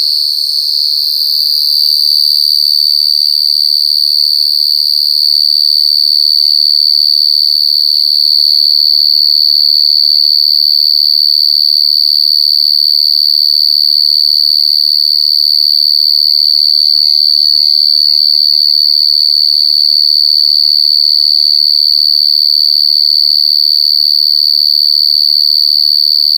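Gangsir (Brachytrypes portentosus), a large burrowing cricket, calling loud and close. Its song is a steady, unbroken, high-pitched trill that holds one pitch throughout.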